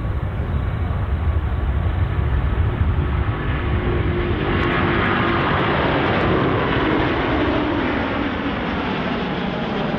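Jet airliner passing close by, its engines a heavy low rumble that turns into a louder, brighter roar and whine about halfway through, then eases slightly.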